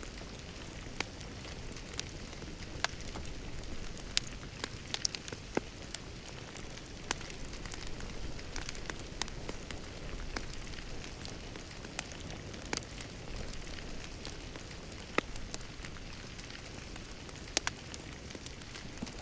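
Wood fire crackling in a fireplace: a steady low rumble of flames broken by irregular sharp pops and snaps, a few of them louder than the rest.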